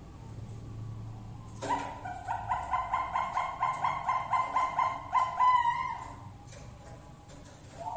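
Zebra dove (Bangkok perkutut) singing: a rapid run of short, even coos, about four a second. It starts about two seconds in and ends on a longer drawn note near six seconds.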